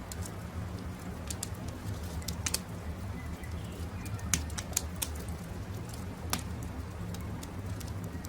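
Campfire crackling, with sharp pops every second or two over a steady low rumble, and birds calling in the background.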